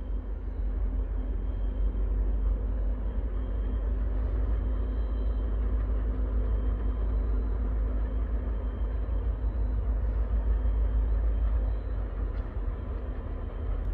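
Diesel freight locomotives approaching in the distance: a steady low rumble.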